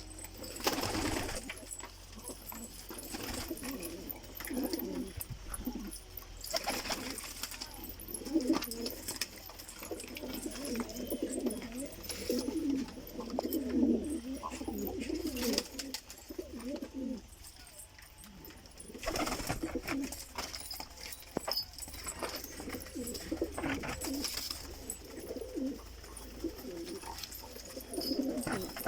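Several domestic pigeons cooing together in a coop, overlapping low pulsing coos throughout, with a few brief noises among them.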